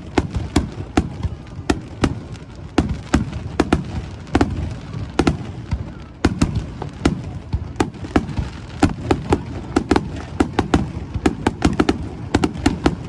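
Aerial fireworks going off in rapid succession: a dense run of sharp bangs and cracks, several a second, over a continuous low rumble of overlapping bursts.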